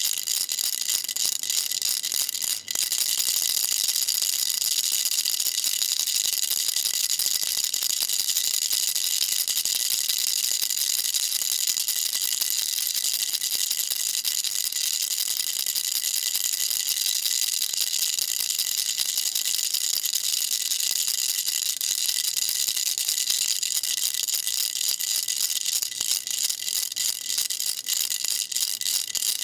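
Baby rattle shaken without pause, a dense, fast, bright rattling that breaks off for a moment about two and a half seconds in.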